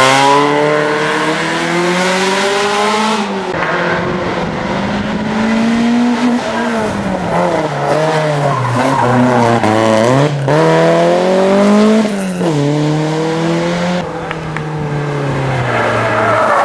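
Rally car engine at full race pace, the revs climbing and dropping again and again as it shifts gears and lifts off through the corners, with tyre noise on the road.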